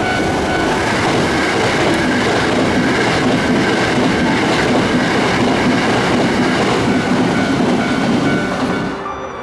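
Hankyu electric train running past, a loud steady rush of wheel and running noise that drops off abruptly about nine seconds in.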